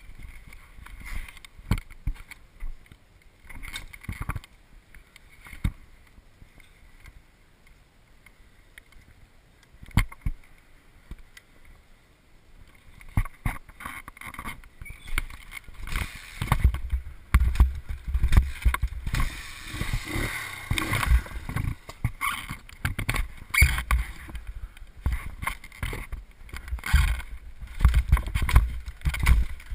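Scattered knocks and bumps at first; then, from about halfway in, wind buffeting the microphone as the motorbike gets moving, an irregular gusting rumble that comes and goes.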